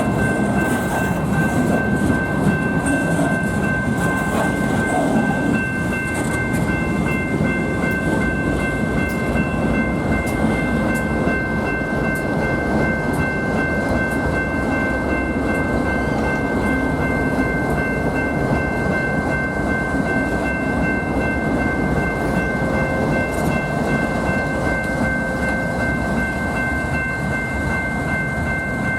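Freight train rolling past, its cars rumbling and clicking over the rail joints, with a steady high-pitched ring held throughout.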